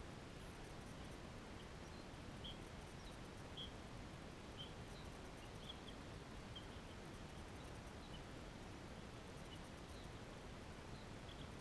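Faint steady background hiss with short, high bird chirps scattered irregularly, about one a second.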